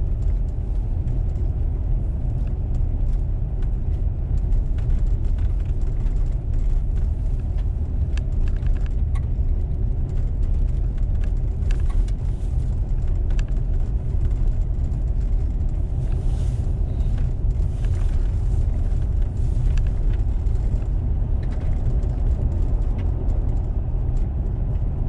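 Toyota Tacoma pickup driving slowly on an icy road, heard from inside the cabin: a steady low rumble of engine and tyres, with faint scattered ticks.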